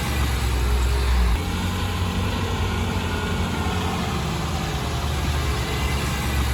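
Heavy earthmoving machine's diesel engine running steadily, with a deeper, louder drone for about the first second that then eases off.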